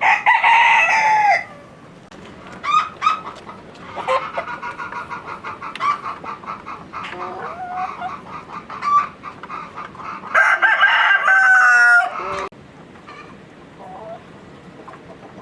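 Rooster crowing twice, once at the start and again about ten seconds later, with shorter clucking calls from chickens in between.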